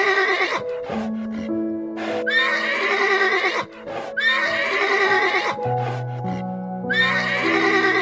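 A horse whinnying again and again over background music with held notes. One high, quavering neigh trails off about half a second in, then three more follow about two seconds apart, each lasting about a second and a half.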